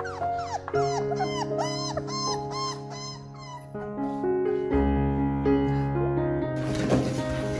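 Puppy whimpering in a quick run of short, high, arching cries over the first three seconds or so, under background piano music.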